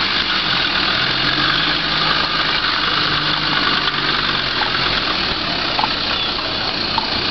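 Land Rover Defender's engine running at low speed as the vehicle drives slowly across grass, a low steady engine hum that is clearest in the middle.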